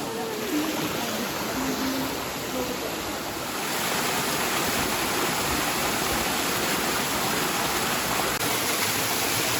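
Rushing water, a steady noisy rush that grows louder and fuller about three and a half seconds in.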